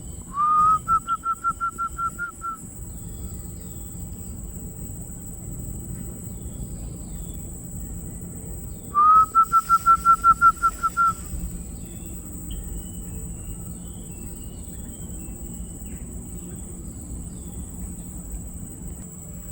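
A large forest bird calls twice, about nine seconds apart. Each call is a short rising whistle followed by a quick series of about ten repeated notes at one pitch. A steady high insect hiss and faint small chirps run underneath.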